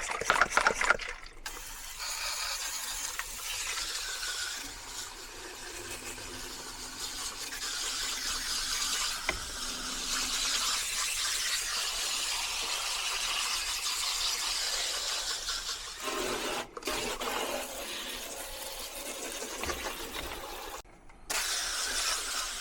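Liquid spraying onto an air-conditioner coil to wash off lint, a steady hiss with a couple of brief breaks near the end.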